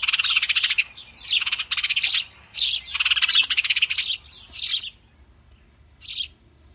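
House sparrows chirping: a run of shrill, harsh chirps, one after another, that stops about five seconds in, with a single chirp near the end.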